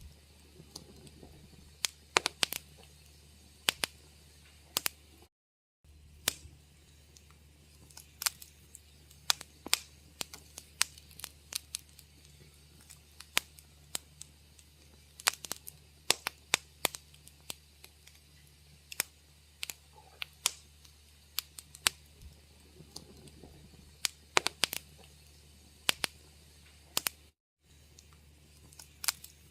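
Wood fire crackling in a fireplace: irregular sharp pops and snaps, some in quick clusters, over a faint steady low hum. The sound drops out for a moment twice.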